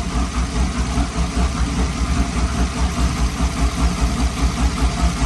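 Chevrolet Camaro SS V8 idling steadily, close to fully warmed up and never revved, its exhaust beating in an even pulse several times a second.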